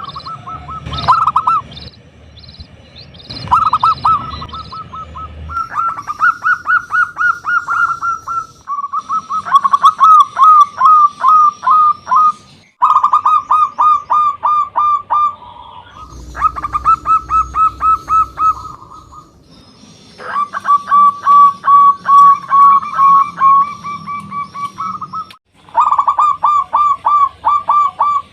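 Zebra dove (perkutut) singing: phrase after phrase of rapid, staccato cooing notes, each phrase lasting a few seconds. Fainter high chirps sound above the song, and the phrases break off abruptly several times.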